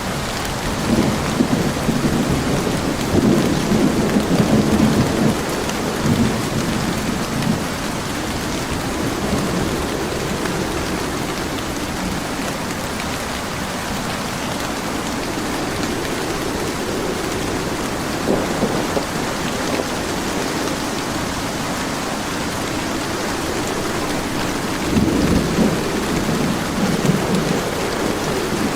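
Steady heavy rain with rolls of thunder: a long rumble in the first several seconds, a short one midway, and another long rumble near the end.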